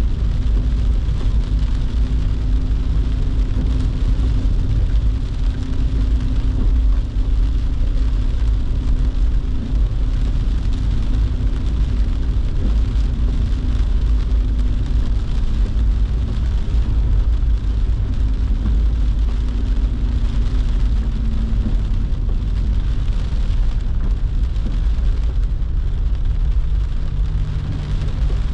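Car driving in the rain: a steady low road and engine rumble with the hiss of rain and wet tyres.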